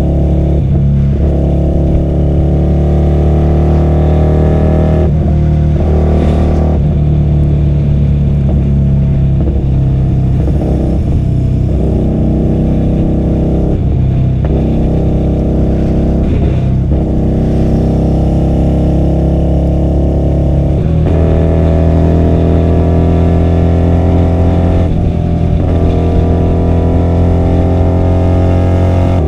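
QJMotor SRV250 V-twin motorcycle engine through a custom 2-into-1 exhaust, ridden under way. The engine pitch climbs and then drops back again and again, as it accelerates through the gears with shifts and throttle changes.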